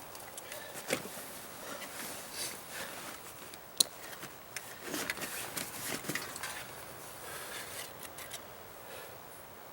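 Scrapes, rustles and knocks of a person scrambling up a wet granite rock face wearing a backpack: boots and gear rubbing on rock and clothing rustling, with a sharp click about four seconds in.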